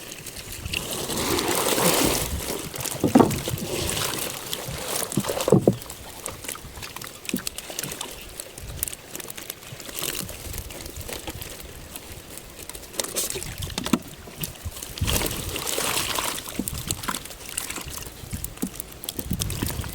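Water sloshing and splashing in irregular surges, with a few sharp knocks in the first six seconds.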